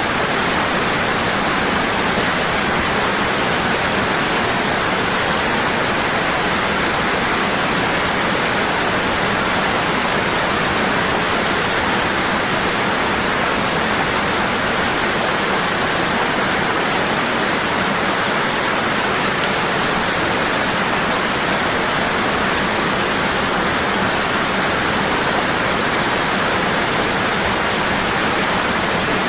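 Waterfall falling strong and steady: a constant rushing of water.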